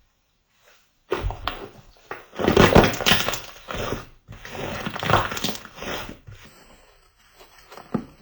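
Slime being squeezed and pressed by hands, giving sticky, crackly squishes and pops in three runs of a second or two each, with a last short squish near the end.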